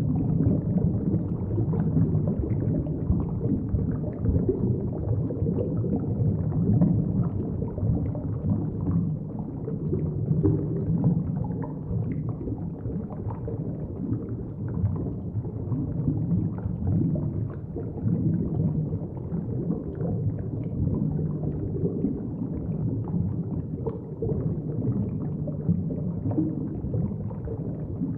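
Underwater ambience picked up by a submerged camera's microphone: a steady, muffled low rumble of moving water with faint scattered ticks.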